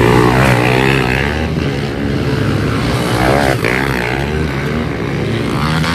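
Several pit bike engines racing together, their pitches rising and falling as the riders throttle up and shift.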